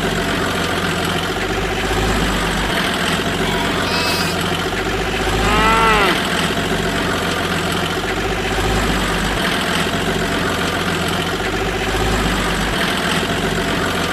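Steady engine-like running sound throughout, with a short rising-and-falling pitched call about five to six seconds in.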